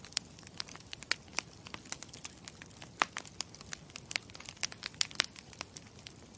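Campfire crackling: many sharp, irregular pops and snaps of burning wood over a soft steady hiss.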